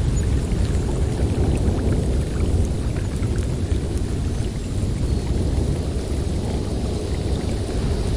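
Blizzard wind blowing steadily through a forest, a dense low rush of noise without pauses.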